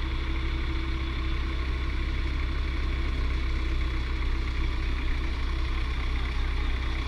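Heavy diesel engine idling steadily, a deep, even running sound with no revving.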